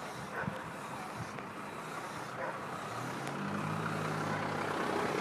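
A motor vehicle engine running nearby over a steady outdoor rumble, growing louder, with a low steady hum for a second or two near the end.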